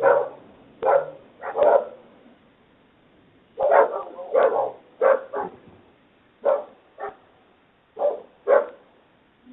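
A dog barking repeatedly, in single barks and quick pairs, with a pause of about a second and a half after the first few barks, heard through a video doorbell camera's microphone.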